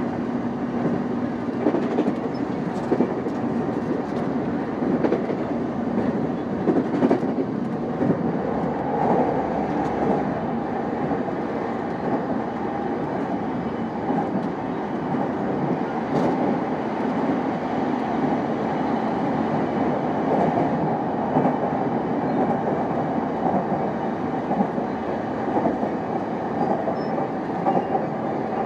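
JR East E233 series 5000 electric train running at speed, with steady rolling noise and irregular wheel clicks over the rails.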